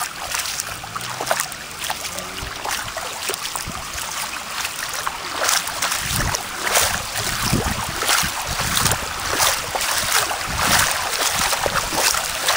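Shallow, fast-flowing floodwater rushing and splashing around bare legs wading through it. From about halfway the wading steps slosh roughly once a second.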